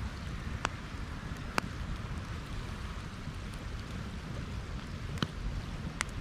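Wood campfire burning: a steady crackling hiss over a low rumble, with four sharp pops spread through.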